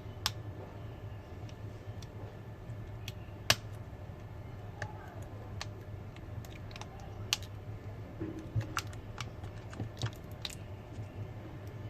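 Irregular small clicks and taps of tools and phone parts handled while a Samsung A50 smartphone is reassembled and its screws are driven in, over a steady low hum.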